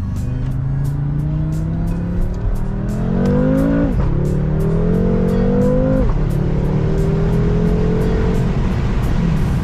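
BMW M5 (F10) twin-turbo V8 heard from inside the cabin under hard acceleration: the engine note climbs, drops at an upshift about four seconds in, climbs again, drops at a second upshift about six seconds in, then pulls on more gradually.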